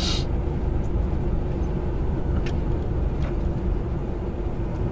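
Steady low drone of a semi-truck's engine and road noise heard inside the cab while driving, with a short hiss right at the start and two faint ticks in the middle.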